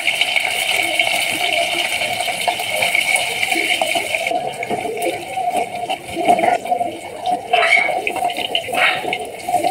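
Cubes of paneer sizzling as they fry in hot oil in a steel kadai; the high hiss eases about four seconds in. After that, a steel ladle stirs and scrapes the cubes around the pan.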